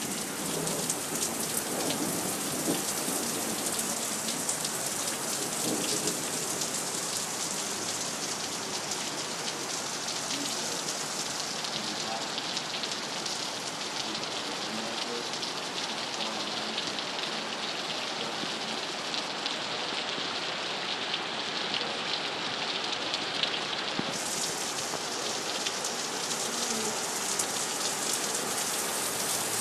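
Heavy rain falling steadily, a dense, even patter of drops that turns a little brighter near the end.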